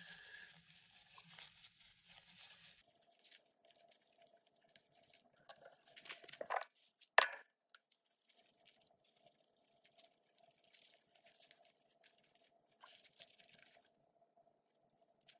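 Faint crinkling and rubbing of paper tissue while small fan parts are wiped clean, with two sharp clicks about halfway through. A faint steady hum runs under it from a few seconds in.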